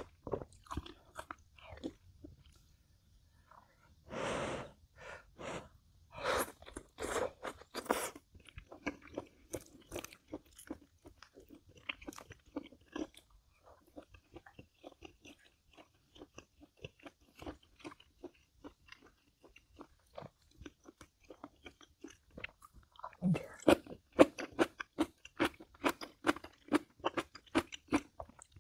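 A person chewing food close to the microphone: scattered wet chews and mouth clicks, then a run of quick, louder crunches over the last few seconds.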